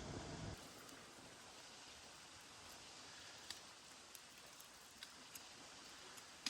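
Faint, steady rain hiss with scattered single drops ticking sharply on a surface, the loudest one near the end. A low rumbling noise cuts off about half a second in.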